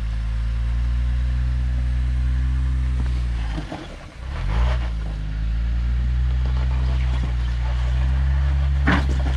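Off-road 4x4's engine pulling under load while crawling up a rocky ledge. Its note sags sharply about four seconds in, then picks back up and holds steady. A short knock comes near the end.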